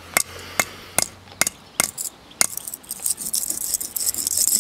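Light metal clinks from the smashed CPU and its aluminium case being struck and handled: six sharp taps at a steady pace, then a busier high-pitched scraping rattle.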